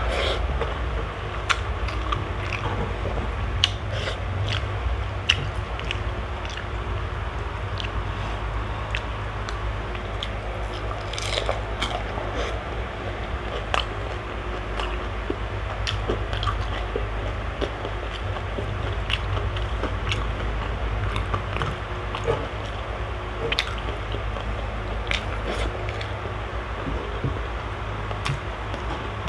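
Close-miked chewing of a mouthful of rice and crispy okoy (fried shrimp fritter), with crunchy bites and many small wet mouth clicks, over a steady low hum.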